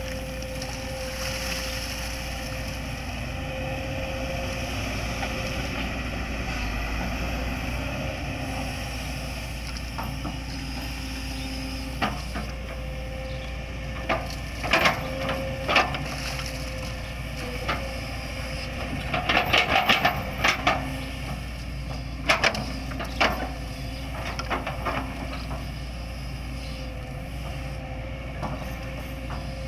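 Hitachi hydraulic excavator running steadily, with a held hum under the engine. From about halfway there are clusters of sharp knocks and cracks as it works.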